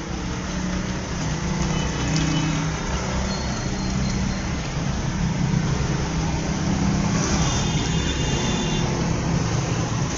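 Steady engine hum with road noise and no speech.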